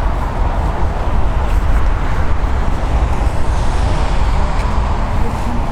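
Steady, loud jet aircraft noise, heavy in the low end and without distinct events.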